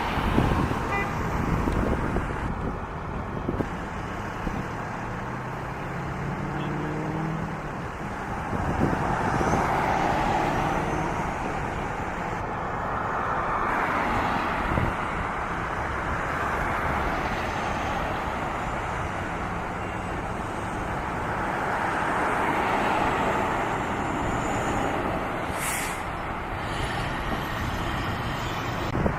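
Road traffic: a steady wash of engine and tyre noise, with several vehicles passing one after another, each a slow swell that rises and fades.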